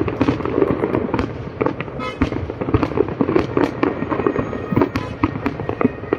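Fireworks display: dense, overlapping bangs and crackles from the bursting shells, following one another with no break.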